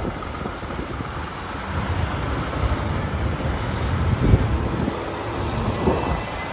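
Truck engine running, a steady low rumble with road noise, and one louder knock about four seconds in.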